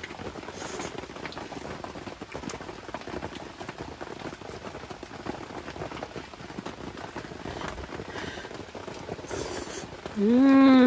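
Steady downpour of rain pattering, with many small drops ticking. Near the end comes a brief, loud pitched call that rises and then falls.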